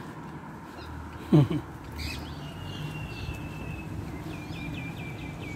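A short, loud sound drops steeply in pitch twice about a second in, over a low steady outdoor hum. Later a bird whistles one long thin note, then a quick trill of short chirps.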